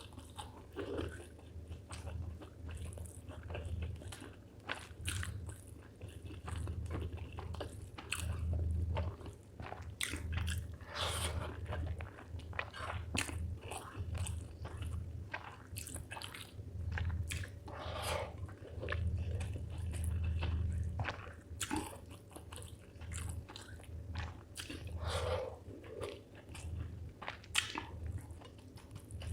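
Close-miked eating sounds of a person chewing spicy chicken liver with rice: steady rhythmic chewing with many short mouth clicks.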